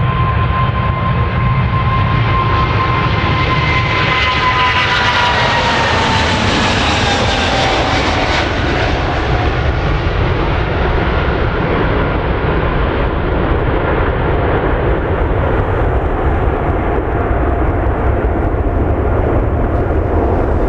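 ANA Boeing 777-200 twin jet engines at takeoff power as the airliner passes. The engine whine drops in pitch a few seconds in as it goes by, and the roar then slowly fades.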